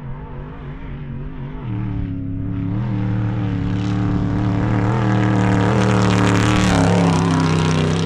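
Off-road vehicle engine pulling at high, steady revs while driving fast over dirt, with rushing tyre and wind noise that builds to its loudest near the end.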